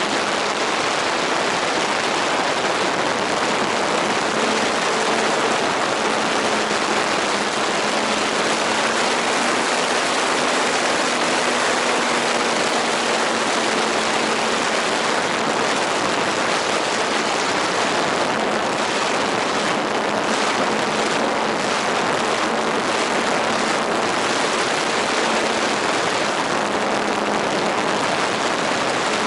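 Steady rushing noise with a faint, even drone underneath from a radio-controlled model aeroplane's motor and propeller. The drone rises slightly in pitch and falls back about ten seconds in.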